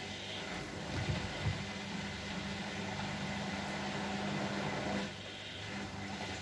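Bosch Maxx WFL 248Y washing machine running: its motor hums steadily, turning the drum for about four seconds and then stopping, with two low thumps near the start.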